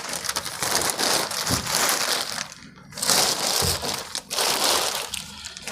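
Packing wrap crinkling and rustling as it is handled and pulled off a new engine, in two long stretches with a short break just before the middle.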